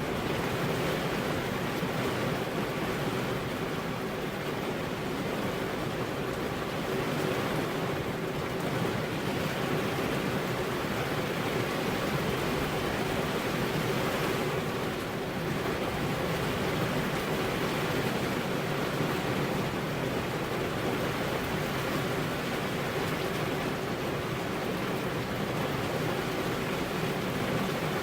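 Rain falling steadily on a car's glass windows, an even hiss with no let-up and no thunder.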